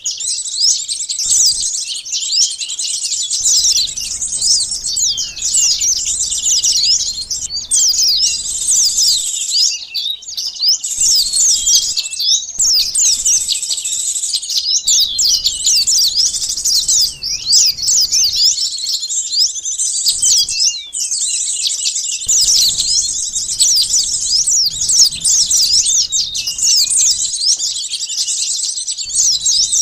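Dense, high-pitched chattering of many small songbirds: a pikat bird-lure recording used to draw in sunbirds and other small birds. Quick rising and falling calls overlap almost without pause, broken by a few short gaps.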